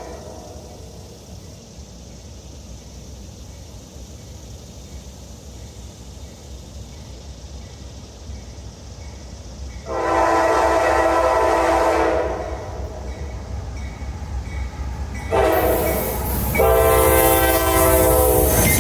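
Norfolk Southern diesel locomotive horn sounding a chord in three blasts over the low rumble of the approaching train: a long blast about ten seconds in, then a short one and another long one near the end, in the pattern of a grade-crossing signal.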